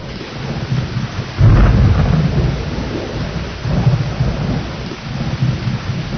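Steady heavy rain with rolling thunder; a loud rumble breaks about a second and a half in and fades away slowly, with further low rumbles after it.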